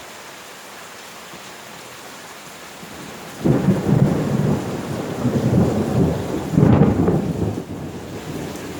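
Steady rain, then about three and a half seconds in thunder breaks out suddenly and loudly and rolls on as a long rumble, swelling again a few seconds later.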